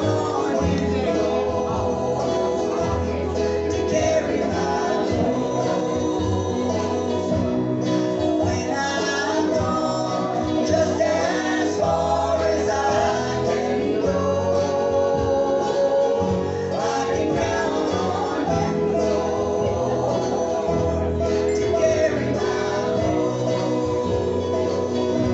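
Live gospel music: a small group with acoustic guitar playing a country-style gospel song, with singing over it.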